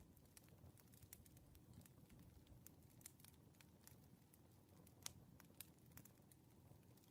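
Faint wood fire crackling: irregular sharp pops and snaps, several a second, over a low steady rumble of burning logs.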